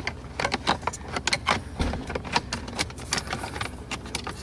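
Quick irregular clicks and rattles of hard plastic and metal parts being handled: a cable end and its plastic housing worked loose by hand. The clicking thins out near the end.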